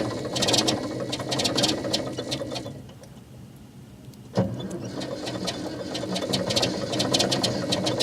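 Old diesel engine running with a rapid, clattery ticking knock. About three seconds in it dies away to a low murmur, then about a second and a half later it comes back suddenly and keeps running with the same clatter.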